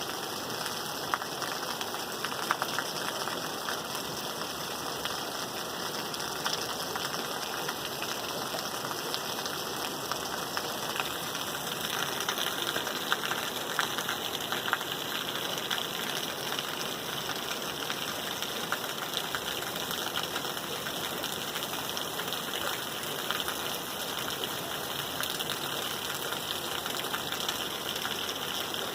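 Rain falling steadily, a dense patter of drops. It grows slightly brighter in tone about twelve seconds in.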